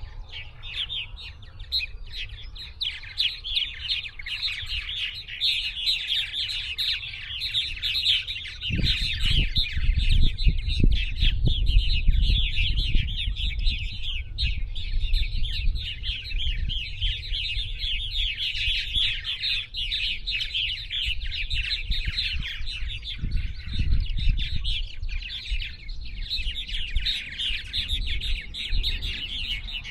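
A dense chorus of many small birds chirping and trilling without a break, high-pitched and fast. From about nine seconds in, an irregular low rumble joins it.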